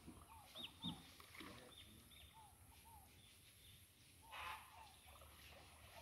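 Near silence with a few faint bird chirps in the first couple of seconds and a brief soft swish about four and a half seconds in.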